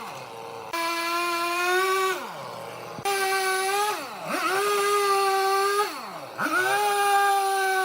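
A high-revving power tool running at full speed. Three times it lets off, its pitch sinking away, and then it picks back up to full speed.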